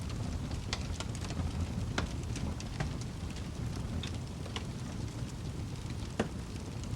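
Crackling wood fire: a steady low rumble of the flames with scattered sharp pops and snaps, the loudest snap about six seconds in.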